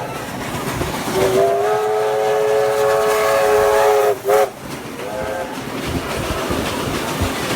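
Steam locomotive 3526's whistle: one long blast of about three seconds, then a short toot and a fainter brief one. Underneath is the steady rumble and rail clatter of the moving train.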